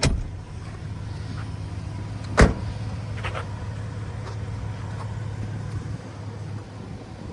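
Steady low hum with a sharp click at the start, one loud sharp knock about two and a half seconds in and a few lighter clicks just after: parts of a Ford Ranger pickup's cab being handled, such as a seat or door.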